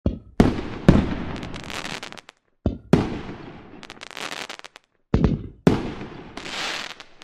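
Fireworks going off: about five loud bangs in three clusters, each followed by a fizzing crackle as the bursts spread and fade.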